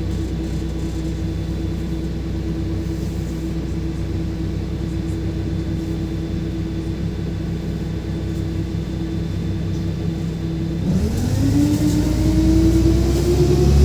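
LiAZ 5292.67 city bus's natural-gas (CNG) engine idling steadily. About eleven seconds in, the bus pulls away: the engine note and a drivetrain whine rise in pitch as it accelerates.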